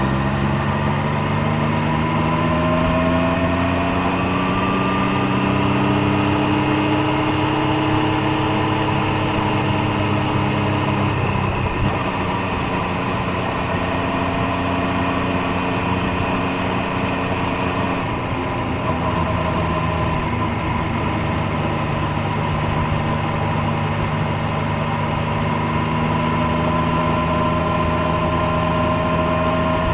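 Triumph Street Triple 765 Moto2 Edition's inline three-cylinder engine and exhaust running under way, the engine note climbing slowly in pitch. The note breaks and changes about eleven seconds in and again about eighteen seconds in, then climbs slowly again.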